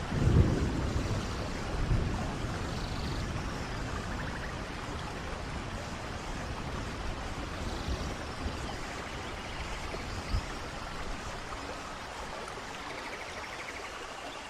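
Waterfall and rain with steady rushing water. A short, louder low rumble comes right at the start and a smaller one about two seconds in.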